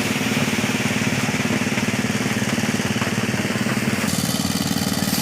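Small engine of a mini rice thresher running steadily, with a slight change in its sound about four seconds in.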